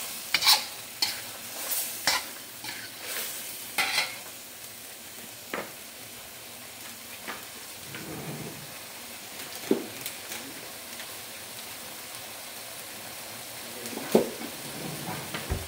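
Spatula stirring and scraping in a steel wok for the first few seconds, then chilli balado paste with eggs sizzling steadily over the gas flame, with an occasional knock of the utensil against the wok.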